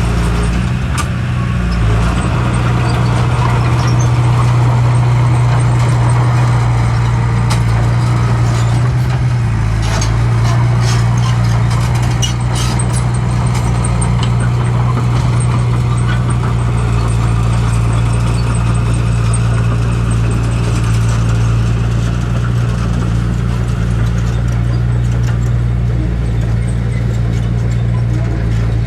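Heavy diesel engine of earthmoving machinery running steadily, with a few sharp knocks about ten to thirteen seconds in.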